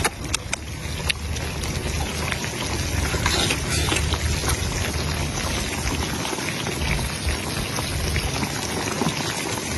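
Small Guizhou baojiang tofu cooking in hot oil, a steady sizzle scattered with small crackles, over a steady low hum.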